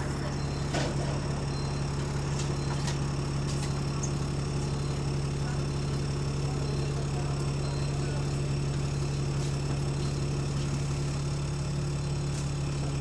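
Bus engine idling steadily, a constant low hum, on a bus with an exhaust leak. There are a few faint clicks and ticks.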